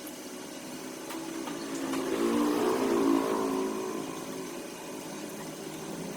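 A small engine revs up about two seconds in and eases back down to a lower, steady running speed.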